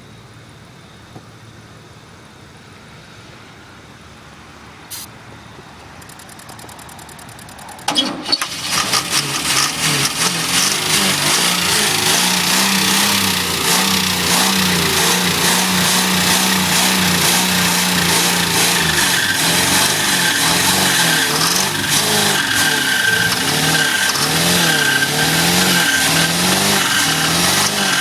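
1985 Pontiac Parisienne engine cold-starting after twelve years of sitting, primed with sprayed starting fluid. It is quiet for several seconds, then catches suddenly about eight seconds in and runs loud and rough, its speed rising and falling unevenly.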